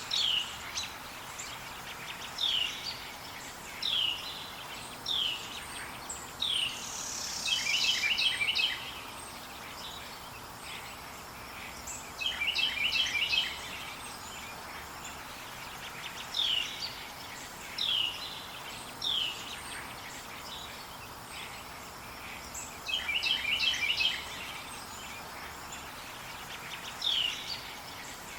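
Wild forest birds singing: one repeats a short, high, falling whistled note every second or two, and another gives a rapid stuttering trill three times, over a steady background hiss.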